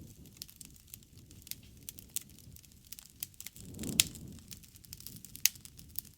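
Wood campfire crackling, with irregular sharp pops over a low flame rush; the flames swell a little past the middle with the loudest pop, and another strong pop follows a second and a half later.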